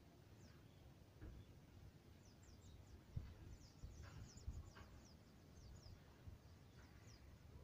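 Faint birdsong: small birds giving many quick, high chirps that fall in pitch, over a quiet background with a couple of soft low thumps.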